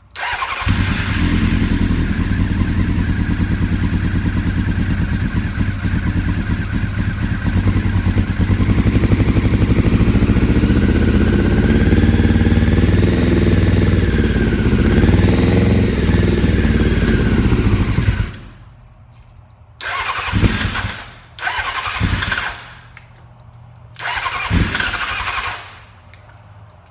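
2000 Honda F4 inline-four engine starting and idling unrevved on the fuel left in its carburetors, with no knocks or pings, its pitch wavering before it dies about 18 seconds in. Then three short bursts as it is cranked and briefly fires again.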